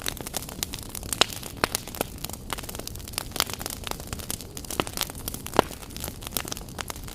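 Fireplace fire crackling, with frequent irregular sharp pops and snaps over a steady hiss, a few of them much louder than the rest.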